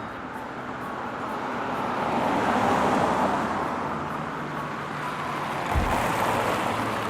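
A vehicle passing on the road: a rush of engine and tyre noise that swells to its loudest about three seconds in, then eases off. There is a low thump near the end.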